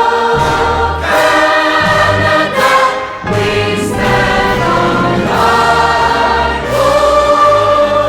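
Choral music: a choir singing long held notes, changing pitch every second or so, over a low bass accompaniment.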